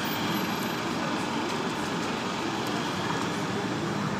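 Steady street traffic noise, an even rush of passing vehicles with no single event standing out.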